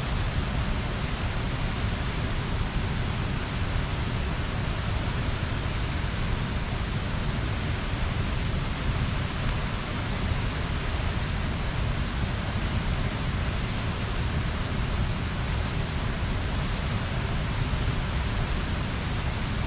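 Bonfire burning with a steady rushing noise of flames, broken by a few faint crackles.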